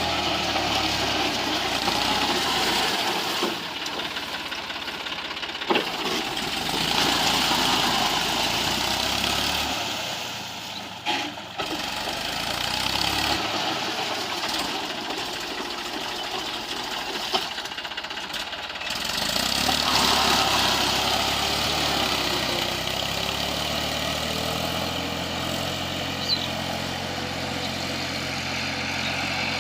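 Eicher 480 tractor's diesel engine running, swelling and easing in level as it works, with a few short sharp knocks along the way.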